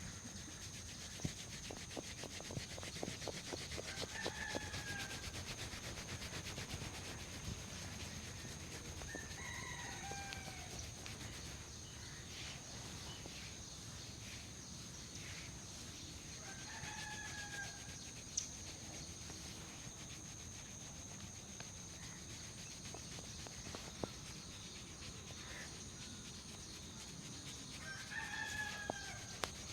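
A bird calling in the background four times, each a short call of about a second that falls in pitch, over a steady high-pitched whine and faint crackling.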